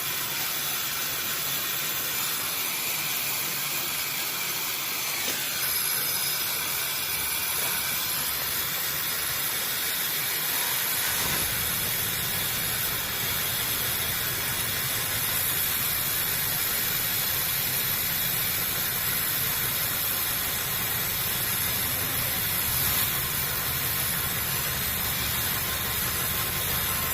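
Gas brazing torch flame hissing steadily while the copper line at the refrigerator's strainer is brazed; a deeper rumble joins about eleven seconds in.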